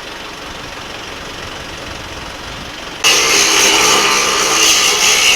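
A steady mechanical hum, then about three seconds in an electric winch starts up much louder and runs steadily with a whining motor, hoisting the engine out of the truck.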